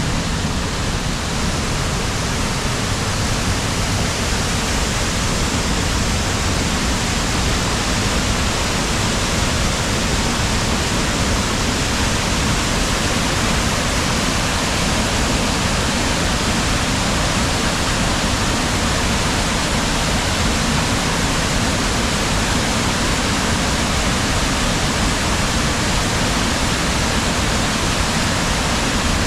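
Waterfall on a river: water falling and rushing in a steady, loud, unbroken roar.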